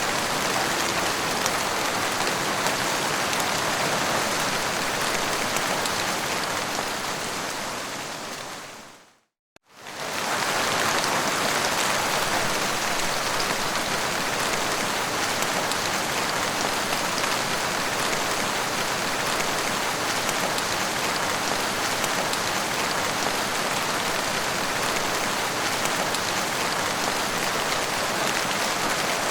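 Heavy rain falling steadily in a dense hiss, with no thunder. About nine seconds in it fades out to a brief moment of silence, then comes straight back at full strength.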